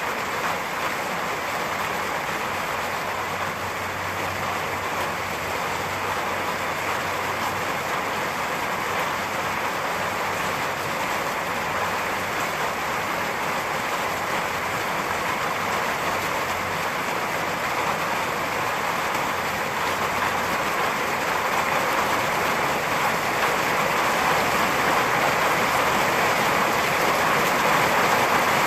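Steady, dense rainfall hissing without a break, growing slightly louder over the last third. No clear thunderclap stands out.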